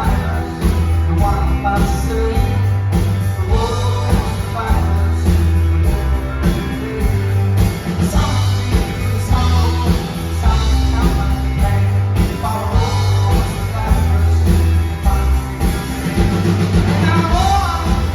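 Rock band playing live: drum kit, bass and guitars, loud and steady, with singing over it.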